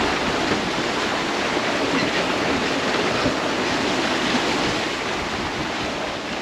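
Steady rushing noise of wind and water aboard a sailboat under way in strong, gusty wind.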